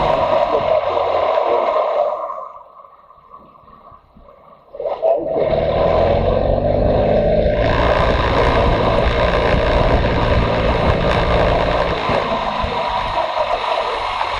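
Motorcycle running at road speed, its engine a steady drone. About two seconds in, the sound falls away sharply for roughly three seconds, then comes back as loud as before.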